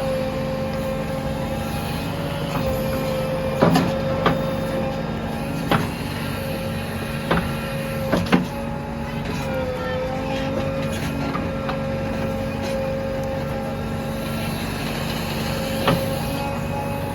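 JCB backhoe loader's diesel engine running steadily while digging, with several sharp knocks from the working machine.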